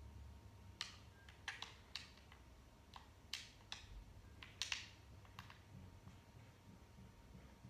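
Faint, irregular clicks and ticks, about a dozen in quick succession over a few seconds, above a low steady hum.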